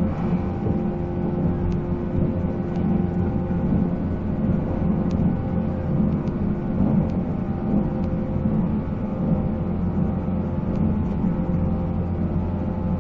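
Running sound inside a 485-series electric train car: its MT54 traction motors and gears whine in several steady tones over the rumble of wheels on rail, at a steady speed.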